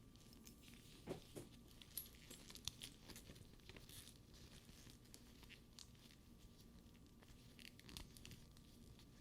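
Faint handling of a faux leather purse: soft rubbing and rustling of the leather with scattered light ticks and taps from its metal buckles and straps.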